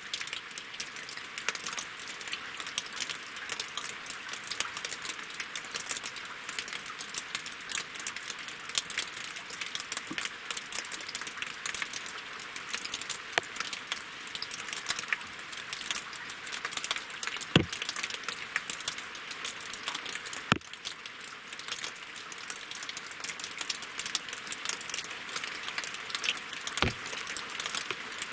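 Winter rain falling on a lake and on logs: a dense, steady patter of drops, with three louder single drop strikes standing out in the second half.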